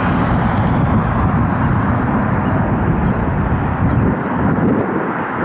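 Jet airliner engines running, a steady loud rumble, with the deepest part of the rumble dropping away about four seconds in.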